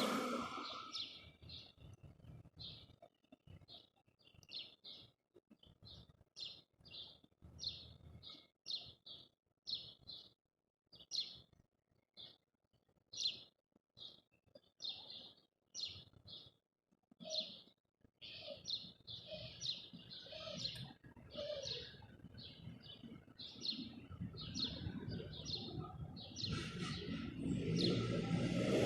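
Small wild birds chirping: a long run of short, high chirps, roughly two a second. A low rumble builds up under them near the end.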